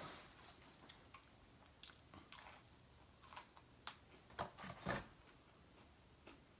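A person chewing and biting into a fried chicken strip, faint, with a handful of short, sharp mouth noises, the loudest about five seconds in.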